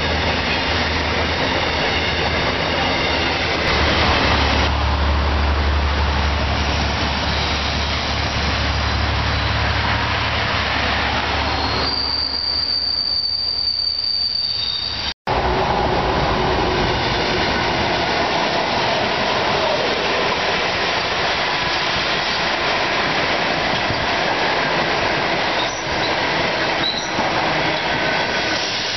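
Freight train grain hopper wagons rolling past, steel wheels running on the rails. After a sudden cut about halfway through, a passenger train's carriages roll past.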